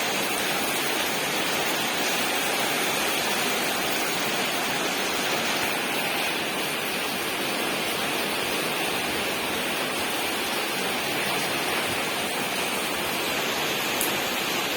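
Heavy rain pouring down steadily, a dense even rushing noise with no letup.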